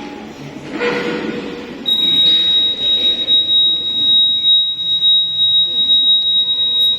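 A steady, high-pitched single tone comes in about two seconds in and holds unbroken, over a loud, uneven background of noise.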